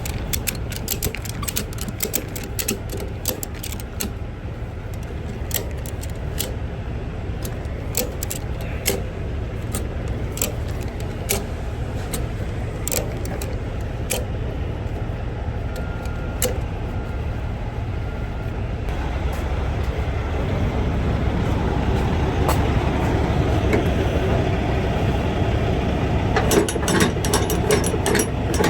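Cargo straps on a flatbed trailer being ratcheted tight: irregular sharp metallic clicks of the pawl, coming thickest near the start and again near the end, over a steady low rumble that grows louder about two-thirds of the way in.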